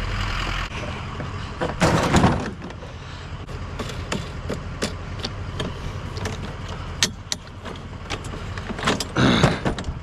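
Knocks, clunks and rattles of a push lawnmower being handled and lifted, with a loud clatter about two seconds in and another near the end. A low steady hum cuts off within the first second.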